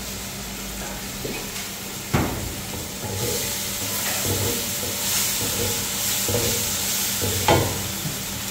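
Onion-tomato masala frying in oil in a metal wok, sizzling while a wooden spatula stirs and scrapes it in repeated strokes; the sizzle grows louder from about three seconds in. Two sharper knocks of the spatula against the pan, about two seconds in and near the end, the second the loudest.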